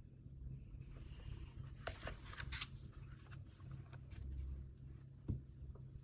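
Paper and small desk items being handled: a stretch of rustling with light clicks about two seconds in, and a single sharper click a little after five seconds.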